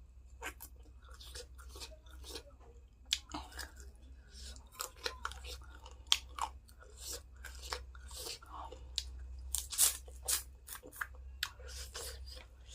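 Close-up chewing and crunching of food, mouth noises in an irregular run of sharp crunches and clicks, the loudest about six and ten seconds in.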